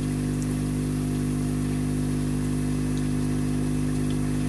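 Ozone generator (ozonator) running with a steady, unchanging hum.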